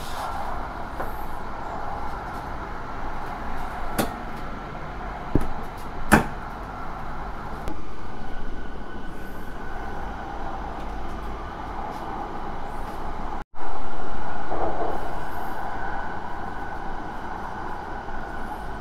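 Cabin running noise of an E5 series Shinkansen travelling at about 110 km/h on a speed-restricted section: a steady rumble and hum with a few sharp clicks. It cuts out for an instant about two-thirds of the way through and comes back louder, then settles.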